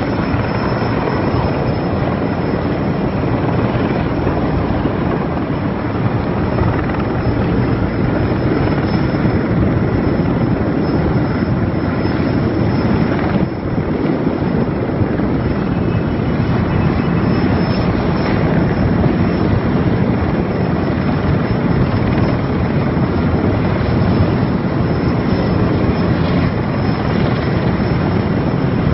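Erickson Air-Crane (Sikorsky S-64) heavy-lift helicopter's rotor and twin turbine engines running loud and steady, with a brief dip about halfway through.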